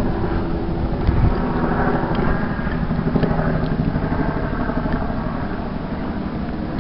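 Steady engine rumble from a vehicle, a continuous low drone with faint steady tones.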